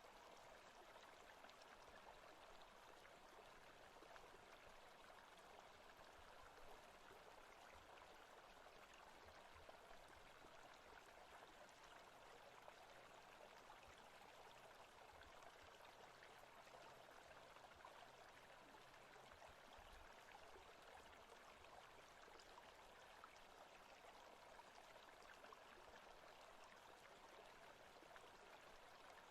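Faint, steady rushing of a forest stream, an even flow of water with no distinct splashes or changes.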